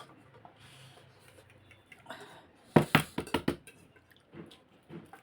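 Eating utensils clicking and knocking against a bowl in a quick run of five or six sharp strikes about three seconds in, with faint, quieter handling sounds around them.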